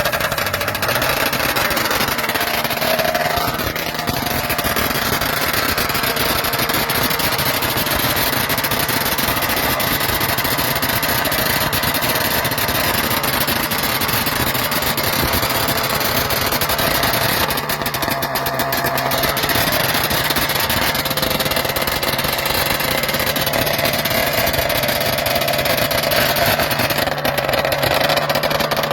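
Vintage Morbidelli two-stroke Grand Prix racing motorcycle engine firing suddenly after failed starting attempts, then running steadily.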